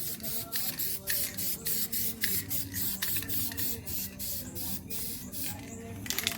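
Aerosol spray paint hissing out in short, quick bursts, about three a second, as a coat is sprayed over a taped stripe on a truck.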